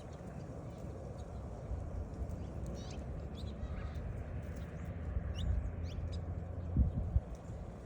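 Small birds chirping: scattered short, high chirps over a steady low rumble, with a couple of dull thumps near the end.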